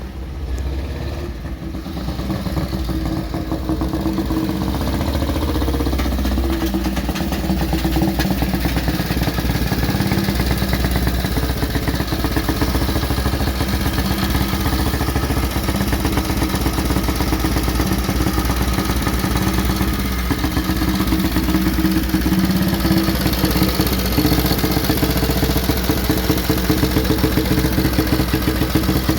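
Motorcycle engine running steadily at idle, swelling over the first couple of seconds, with a brief change in pitch several seconds in.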